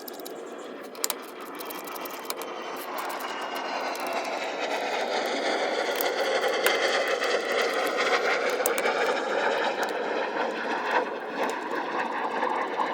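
An aircraft passing overhead, its engine noise swelling slowly and its tone sweeping down and back up as it goes over, with a few sharp clicks.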